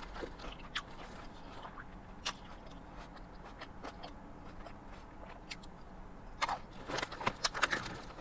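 Close-up eating sounds: a person chewing, with small scattered mouth clicks, then a run of crisp crunches about six and a half seconds in.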